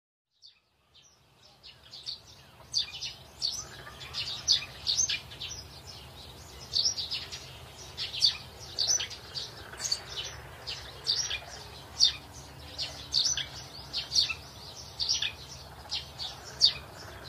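Small birds chirping: short, high chirps in quick succession. They fade in over the first couple of seconds and continue without pause over a faint, steady low hum.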